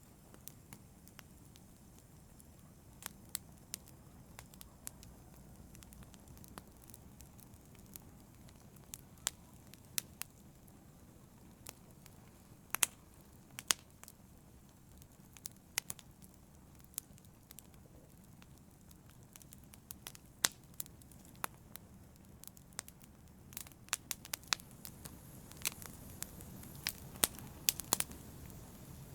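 Wood fire crackling in a fireplace: irregular sharp pops and snaps over a low steady hiss of burning, the pops coming thicker and the hiss a little louder near the end.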